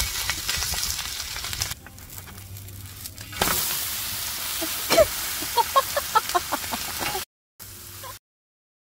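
Kimchi pancakes sizzling in oil on a griddle pan, a steady hiss that eases off for a moment and comes back. A run of short high chirps sounds over it near the middle, and the sound cuts off near the end.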